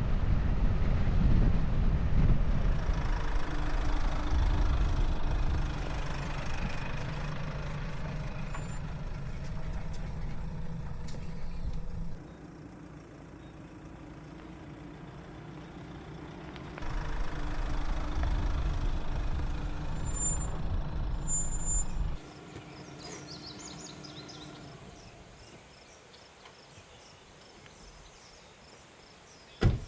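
A vehicle driving, its engine running with a steady hum over a loud low rumble, in two stretches with abrupt cuts between them. After that it gives way to quieter outdoor ambience with a few high chirps, and a single sharp knock near the end.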